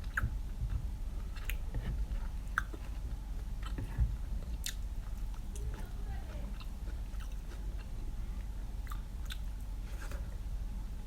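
Close-up eating sounds: chewing and biting, with scattered sharp crunches and mouth clicks, over a steady low room hum.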